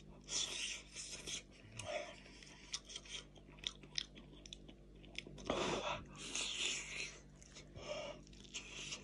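Close-up eating sounds of a person chewing meat pulled off the bone by hand: wet chewing with a run of short smacks and clicks, and one louder, longer burst about halfway through.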